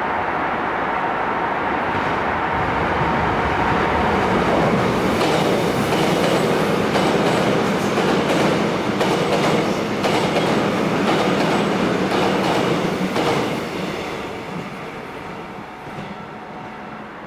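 Korail electric passenger train passing close by: a loud rumble as it arrives, wheels clicking over the rail joints as the cars go past, then dying away about 14 seconds in as it pulls off.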